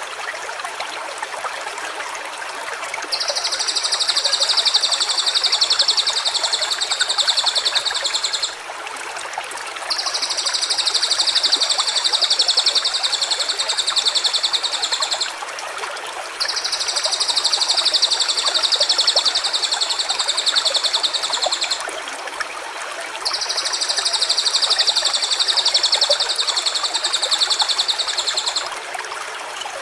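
Stream running steadily, with four long, high, rapid trills of about five seconds each over it, one every six or seven seconds.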